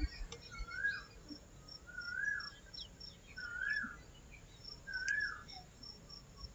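A bird repeating a short rising-then-falling whistled call four times, about once every second and a half, over a faint, even, high-pitched insect chirping.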